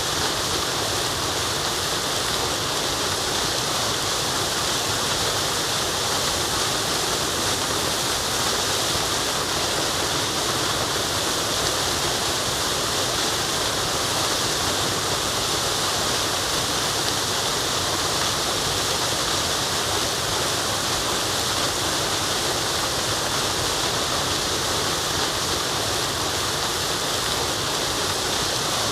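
Forest waterfall: the steady, unbroken rush of falling water.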